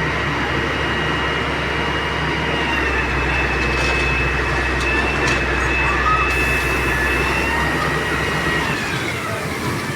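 Heavy excavator's diesel engine running under load, with a steady high-pitched whine over the rumble. The whine dips slightly in pitch near the end as the engine eases off.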